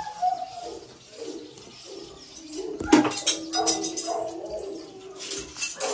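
A bird calling in pitched, gliding notes, one of them held for over a second. A sharp click or knock comes about halfway through, and another near the end.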